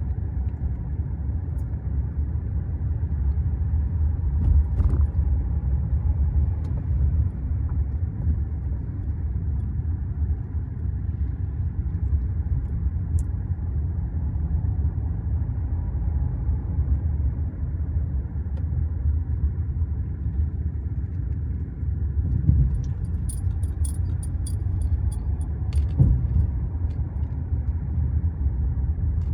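A car driving, its road and engine noise a steady low rumble, with a brief high jingling and a couple of knocks near the end.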